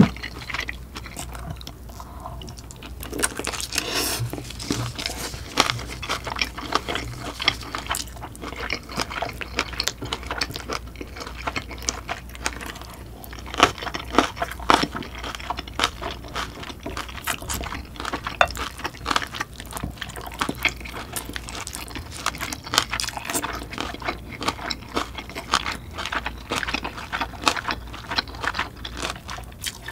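A person chewing food close to the microphone: a dense run of irregular wet clicks and smacks from the mouth, with a few louder bursts of chewing here and there.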